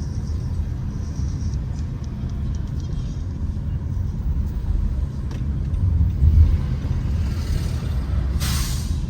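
City street traffic with a steady low rumble of passing vehicles. Near the end comes a short, sharp hiss of released air.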